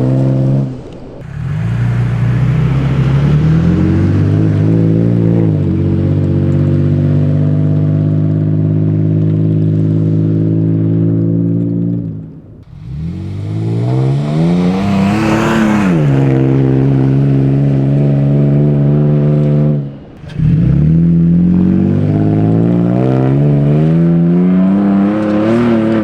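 Toyota Tacoma engine running through a MagnaFlow Overland cat-back exhaust, revving up and settling back in pitch over several cut-together clips. The sound breaks off briefly about a second in, about halfway and again about three-quarters of the way through. The biggest climb in pitch comes a little past halfway.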